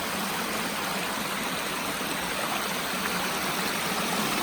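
Creek water rushing steadily, an even hiss growing a little louder near the end.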